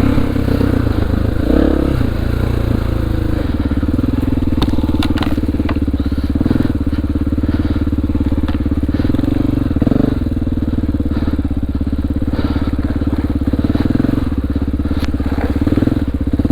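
2002 Honda XR400R's air-cooled single-cylinder four-stroke engine running at low revs, its pitch shifting over the first few seconds and then holding steady. A few brief clicks and knocks sound over it.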